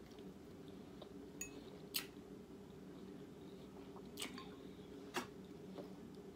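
Someone chewing food, with a few sharp clicks (about four, the loudest about two seconds in and again about five seconds in), over a steady low hum.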